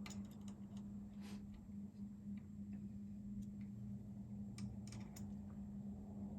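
Light, scattered clicks and ticks of small metal parts, the horn button pieces and their screws, being handled and fitted onto a steering wheel, over a steady low hum.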